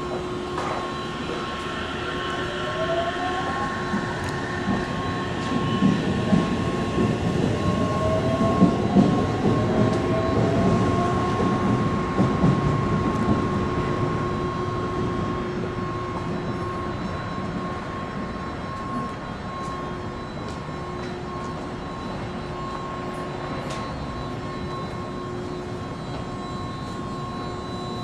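JR 211-series electric train standing at a platform, its onboard equipment giving a steady hum with two constant tones. In the first half a louder rumble with several rising whines swells and then fades away.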